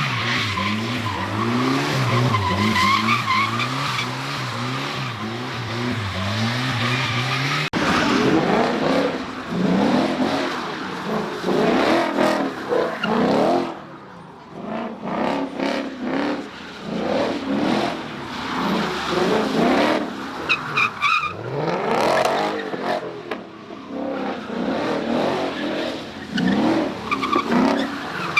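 Cars drifting: tyres squealing with a wavering pitch while an engine holds revs. An abrupt change about eight seconds in gives way to repeated revving, each rev rising in pitch, with louder and quieter stretches.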